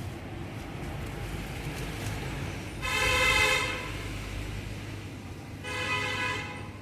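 Two horn blasts from a vehicle, each under a second long, about three seconds apart, over a low steady rumble.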